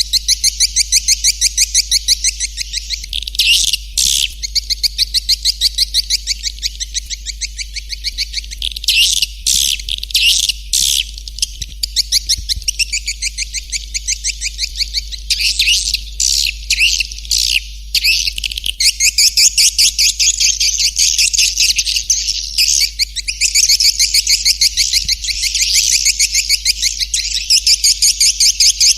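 Swiftlet lure call: fast, evenly repeated twittering chirps of swiftlets, about ten a second, broken by a few denser bursts of twitter, over a steady low hum.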